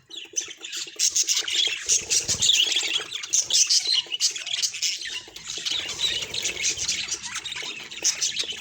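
Budgerigars chattering and warbling: a dense, unbroken run of quick chirps and squawky notes.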